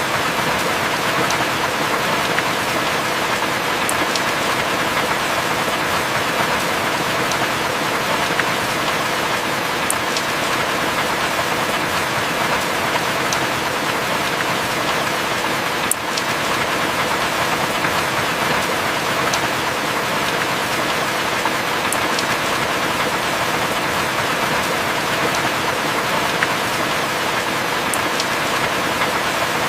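Heavy rain falling steadily, an even hiss, with faint clicks about every six seconds.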